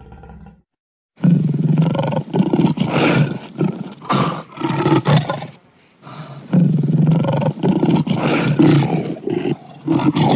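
Lion roaring in two long bouts, each a run of short rough pulses. The first starts about a second in, and the second follows a brief pause near the middle.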